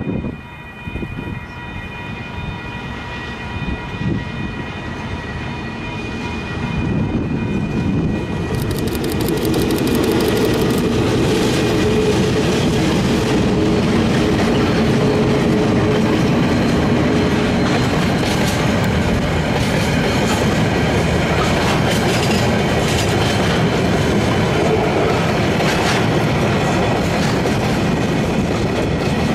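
Diesel freight train led by KiwiRail locomotives DFT 7104 and DXC 5419 approaching and passing close by. The locomotive sound builds over the first ten seconds to a steady loud level, then a long rake of flat wagons rolls past with the wheels clicking over the rail joints.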